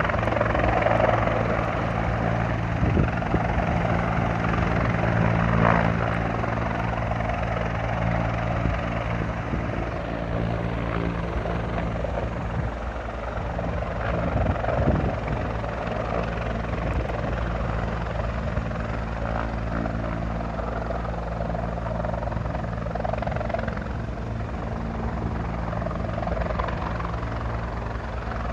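Rescue helicopter running steadily, a continuous low rotor drone under a dense rushing noise, with no break.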